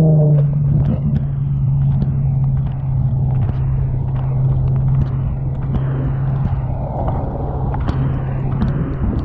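Street traffic: a steady low engine drone from a nearby motor vehicle drops slightly in pitch at the start and fades out near the end, over a low rumble with scattered clicks.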